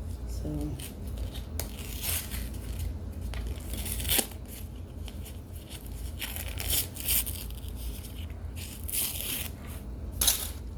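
Rustling and scraping as a pressed block of cornstarch and baby powder is handled, with scattered short crackles; the sharpest come about four seconds in and near the end.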